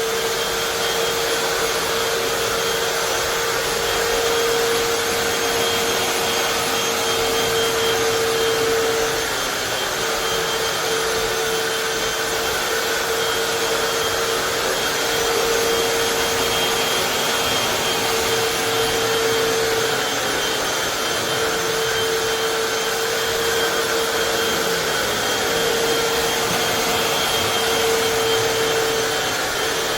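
Hoover FloorMate Deluxe wet-dry hard floor cleaner running continuously: a steady suction-motor hiss with a constant whine that wavers briefly a few times.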